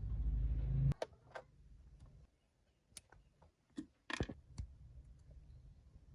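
Small hand-work clicks and knocks, likely plastic parts of a 2002 Honda Civic instrument cluster and its twist-in bulb sockets being handled. A low rumble of handling noise fills the first second, then come scattered sharp clicks, loudest in a quick cluster about four seconds in.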